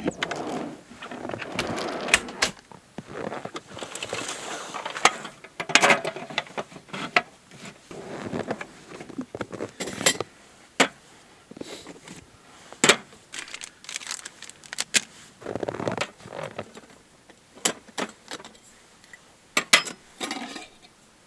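Gear being handled: irregular sharp clicks and knocks, more than a dozen, mixed with short stretches of rustling.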